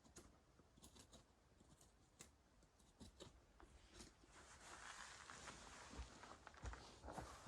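Quiet forest ambience, near silence, with faint scattered crackles and ticks and a soft rustle building about halfway through.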